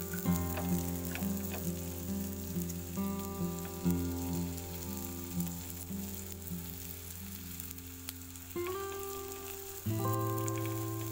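Potato patties sizzling in butter on a tawa over a low flame, with a few spatula scrapes and taps as they are pressed and turned. Soft background music with long held notes plays over it, changing chord a few times.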